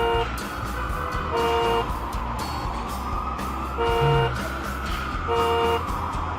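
Cartoon vehicle horn honking in short toots, four times, over a slow rising-and-falling siren wail and background music.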